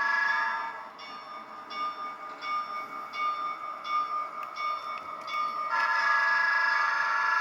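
Sound-equipped N scale model train's onboard sound sounding a sustained multi-tone horn. About a second in the horn stops and a bell rings steadily, roughly three strikes every two seconds. Near the end the horn sounds again.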